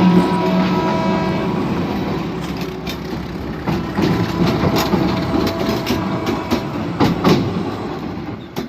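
A train passing, its horn sounding for the first second or so and then trailing off into the rumble of the train. Wheels knock over the rail joints, with sharper clacks near the end.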